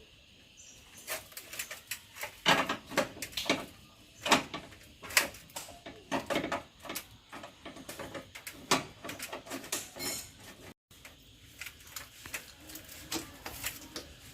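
A run of irregular knocks, clicks and clatter from hard objects, loudest and thickest between about two and six seconds in, thinning out later.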